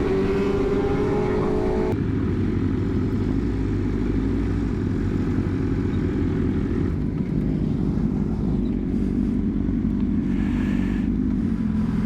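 Sport motorcycle engine at speed: it revs up with rising pitch, then about two seconds in changes suddenly to a steady low drone that holds until near the end.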